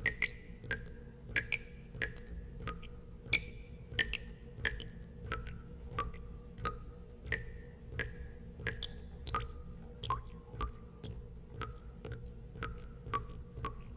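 Water drops falling into water, about one and a half a second at an uneven pace, each a sharp plink with a brief ringing tone that often drops in pitch. A steady low hum runs underneath.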